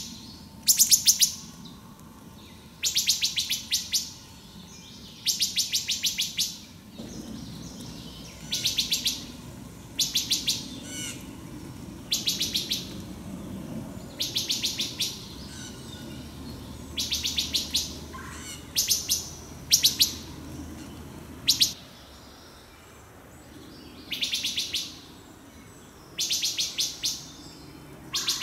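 A small bird gives a rapid, dry chattering call over and over, each burst a quick run of clicks lasting under a second, repeated about every two seconds.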